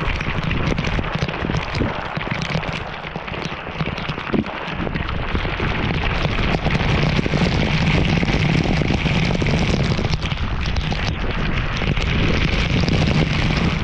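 Loud rush of falling and splashing water, a canyon waterfall or cascade close to the microphone, steady with a crackle of spray and growing somewhat louder about halfway through.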